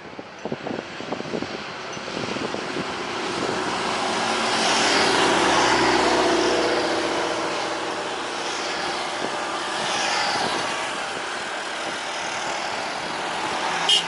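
Jet airliner engines running as the aircraft passes, swelling to their loudest about five to seven seconds in and then easing off a little. A sharp click comes near the end.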